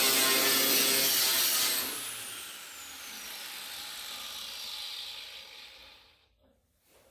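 Rotary power tool running at full speed, then switched off about two seconds in, its high whine falling as it spins down and fades out.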